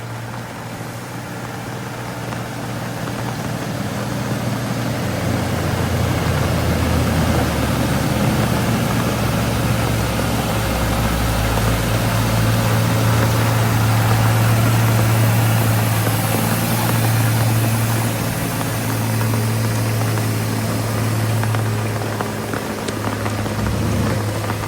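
Heavy Tata and Ashok Leyland trucks' diesel engines running with a steady low drone, growing louder over the first several seconds and easing off slightly near the end.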